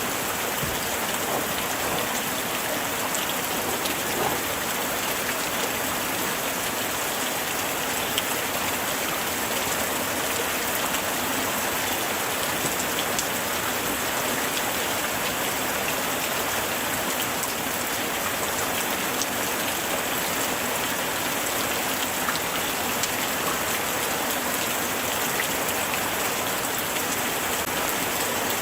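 Steady light rain falling on surfaces, an even hiss dotted with small individual drop ticks.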